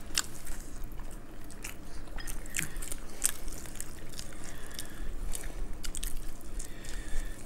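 Close-up eating sounds: people chewing and biting into food, with irregular wet clicks and mouth smacks throughout.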